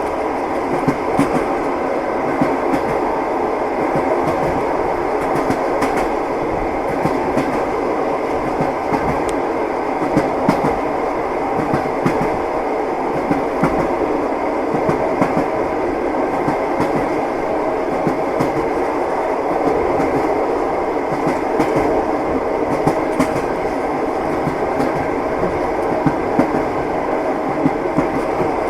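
Train running along the track: a steady rumble with the wheels knocking over the rails throughout.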